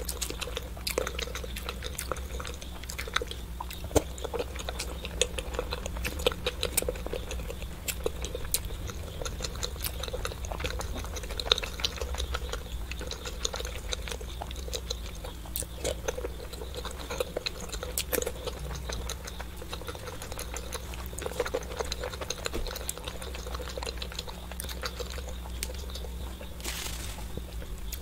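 Close-miked chewing of hard-boiled eggs coated in thick chili sauce: a steady run of soft wet squelches, lip smacks and mouth clicks over a low hum.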